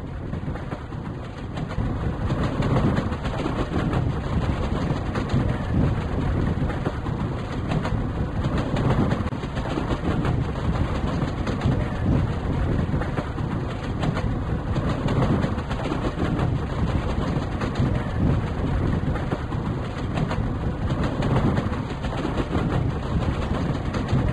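A train running along the track, with a steady rumble and rattle of wheels and carriages.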